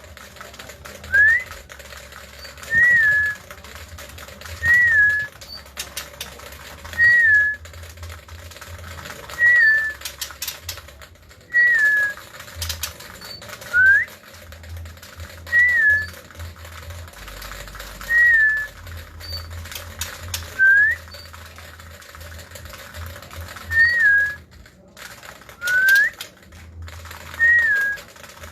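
Male white-rumped shama repeating a short clear whistle about every two seconds. Most notes rise, then step down in pitch; a few times an upward-sweeping note comes in their place.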